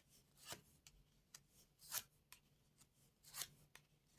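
Faint swishes of playing cards being drawn and laid out on a table: three soft slides about a second and a half apart, with small clicks between them.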